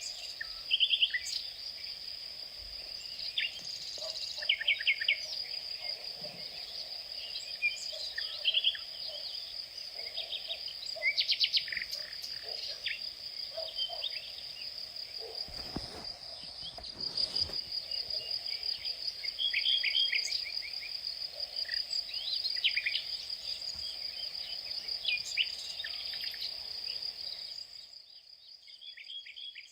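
Outdoor insect chorus: a steady, high, unbroken trill like a cricket's, with short bird chirps breaking in again and again over it.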